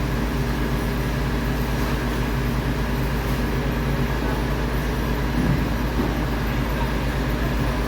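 MAN TGS 26.320 garbage truck's diesel engine running steadily, a constant low hum that does not change in pitch.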